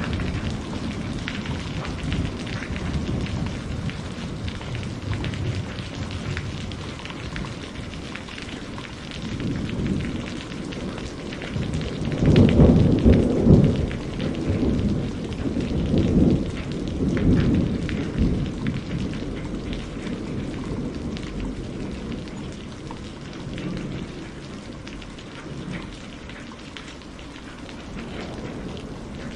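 Steady rain falling, with a long roll of thunder rumbling in about ten seconds in, loudest about twelve seconds in, then dying away.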